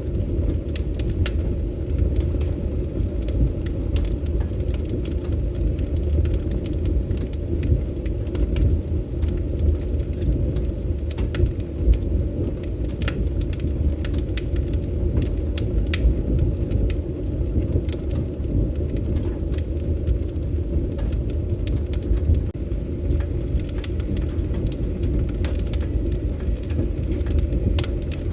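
Fireplace fire burning: a steady low rumble of flames with frequent small crackles and sharp pops scattered throughout.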